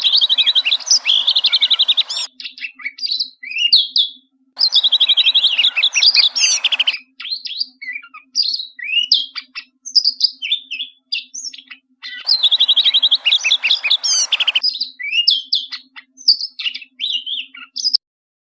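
Bluethroat singing: three phrases, each opening with a fast run of repeated ringing notes and going on into varied chirps and twitters.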